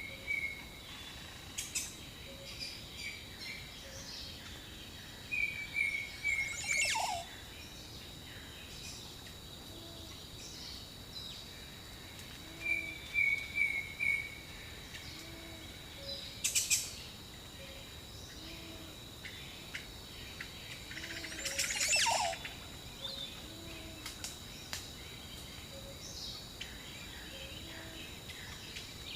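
Jungle birdsong: several birds calling, with a run of four short whistled notes recurring every several seconds, a low call repeating about every two seconds, and a few sharp, sweeping calls. A steady high-pitched whine runs underneath.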